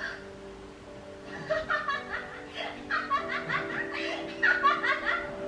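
Laughter, a quick run of repeated bursts starting about a second and a half in, over soft background music with held notes.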